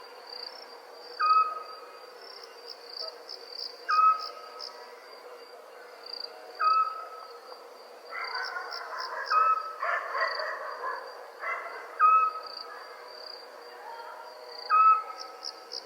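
Crickets chirping steadily in a high, pulsing trill, with a short owl call repeating about every three seconds. Around the middle, a louder rasping sound lasts about three seconds.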